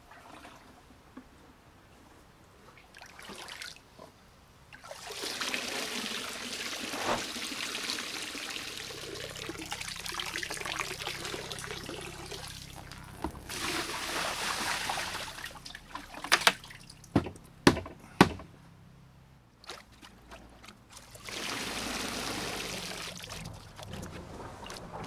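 Water pouring and splashing in several spells of a few seconds each, with a few sharp knocks in the middle.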